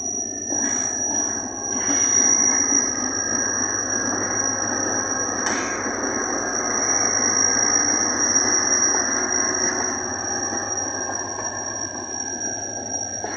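Diesel locomotive hauling passenger coaches past at close range: a heavy rumble of engine and wheels on the track that swells twice, with a few sharp clanks. A steady high-pitched whine runs under it throughout.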